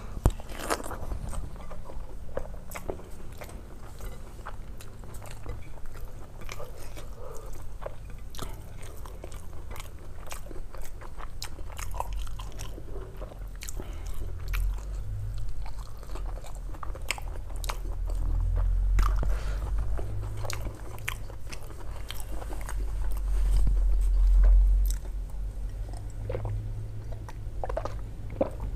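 Close-miked chewing of mouthfuls of rice, egg curry and fried eggplant eaten by hand, with frequent short wet mouth clicks. A louder, deeper stretch of chewing comes about two-thirds of the way through.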